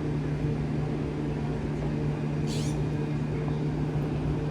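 Open fire-dispatch radio channel between transmissions: a steady electrical hum over hiss, with a brief burst of static about two and a half seconds in.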